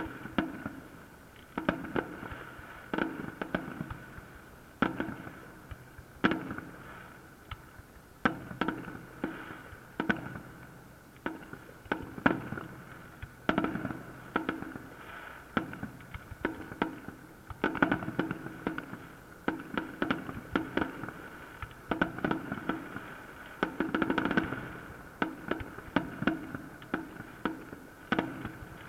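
Fireworks salute: a continuous run of shell bursts, sharp bangs every second or so, each followed by a short rolling echo, some coming in quick clusters.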